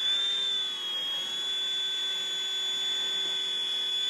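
Small electric RC helicopter hovering: a steady, high-pitched motor and rotor whine. Its pitch lifts slightly near the start, then settles.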